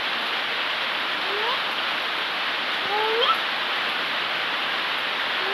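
Heavy rain falling steadily, with two short rising squeaks in the middle.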